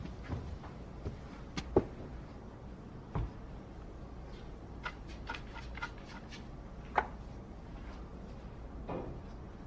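Billiard balls clacking during play: sharp strikes about two seconds in and again about seven seconds in, with a quick run of lighter clicks of balls knocking together in between.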